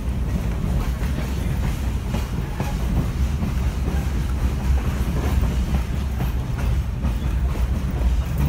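Passenger rail car rolling along the track, heard from inside the car: a steady low rumble with the wheels clicking irregularly over the rail joints.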